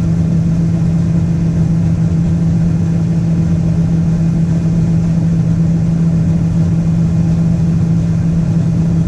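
A combine harvester's engine and machinery running at a steady pitch, heard from inside the cab while the grain tank is being unloaded: an even drone with one strong, unchanging hum.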